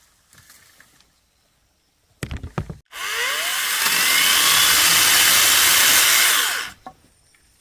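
A few knocks, then a power tool runs loud for about four seconds and cuts off.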